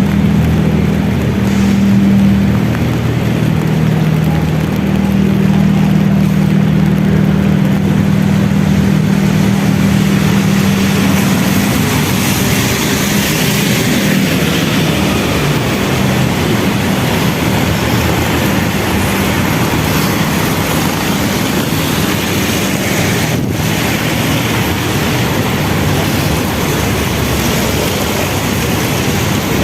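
Steady vehicle noise, with a low engine hum that fades out about twelve seconds in.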